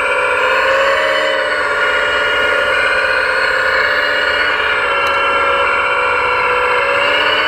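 Scale RC construction machine running: a steady mechanical whine whose pitch drifts slowly up and down.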